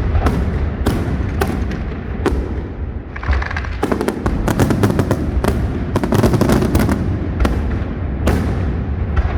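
Aerial fireworks display: a steady run of sharp bangs and cracks over a continuous low rumble, with a dense rapid crackle of many reports about four seconds in.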